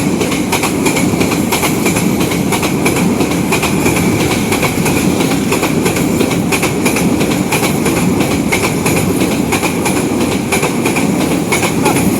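A train passing close by: the steady, loud running noise of railway cars with rapid clicking and rattling from the wheels on the track.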